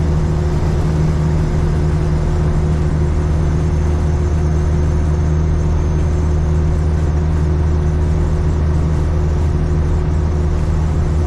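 Steady drone of a Caterpillar 3406E diesel engine with road noise, heard inside the cab of a Freightliner FLD120 semi-truck cruising at highway speed on cruise control. A low, even hum holds at one pitch throughout.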